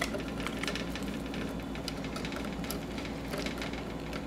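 Steady hiss and low hum of a bath for a budgie, with scattered small clicks and splashes as the bird moves in the water.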